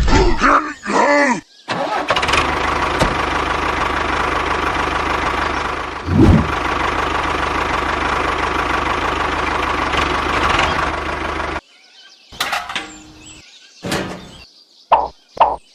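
A small engine running steadily for about ten seconds, then cutting off abruptly, followed by a few short, sharp sounds.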